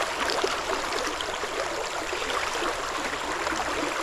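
Creek water running and babbling over rocks: a steady rushing with small splashy gurgles.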